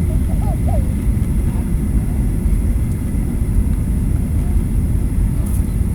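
Airliner cabin noise during the approach to landing: a steady, loud low rumble of engines and airflow heard from inside the passenger cabin.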